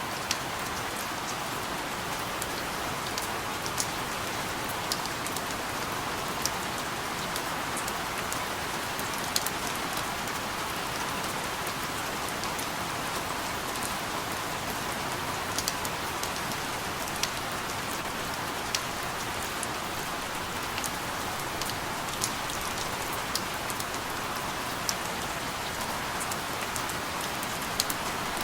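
Steady rain falling, an even hiss with scattered sharper drop ticks every second or so.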